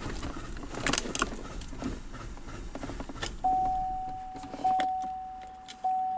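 2017 GMC Sierra's engine running roughly and dying about three seconds in, a sign of its excessively lean fuel mixture. Then a single-tone dashboard warning chime rings, each ring fading, about once every second and a bit.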